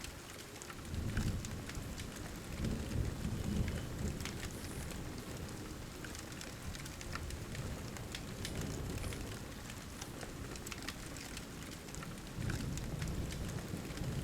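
Steady rain falling, with low rumbles of soft thunder that swell about a second in and again near the end, over scattered small crackles of a wood fire.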